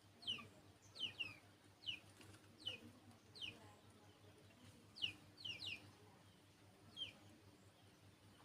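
A sunbird calling: short, high chirps that slur downward, singly or in quick pairs, about a dozen in all, the last about seven seconds in.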